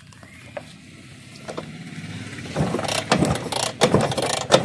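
Bajaj Chetak scooter's two-stroke engine being turned over on the kick-starter without firing, a spark check after years of disuse. The mechanical noise builds in the first half, then comes as loud, irregular strokes.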